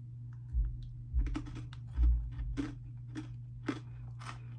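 Crunchy chewing of thick, hard Cheetos-dusted pretzels close to the microphone: sharp crunches about every half second from about a second in, with a few dull low thumps in the first two seconds. A steady low hum runs underneath.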